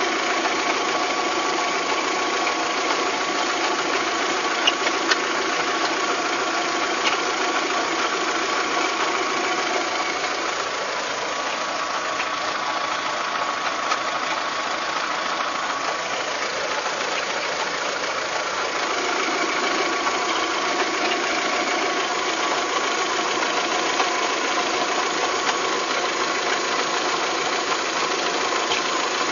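Volkswagen Golf Mk3 engine running steadily, with the abnormal engine noise under diagnosis. A few sharp ticks stand out now and then, and the sound eases slightly for a while in the middle.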